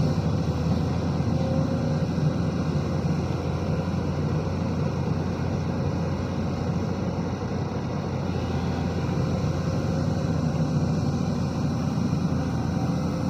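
SANY SY215C excavator's diesel engine running steadily, with a faint whine that comes and goes.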